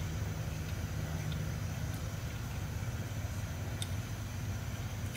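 A car engine idling, a steady low hum heard from inside the cabin, with a few faint crinkles of burrito foil being handled.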